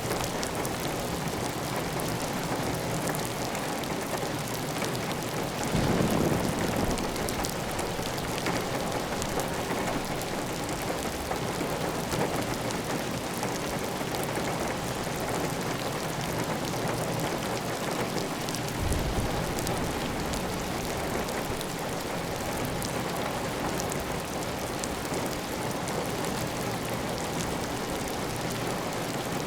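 Heavy rain falling steadily on a clay tile roof, with water running off the roof edge, an even hiss of countless drops. About six seconds in there is a brief louder, deeper swell.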